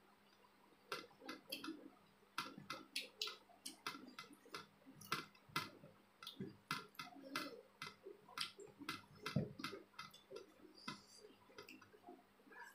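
Close-up mukbang eating sounds: wet mouth clicks and lip smacks from chewing a mouthful of rice and chicken curry, coming irregularly several times a second.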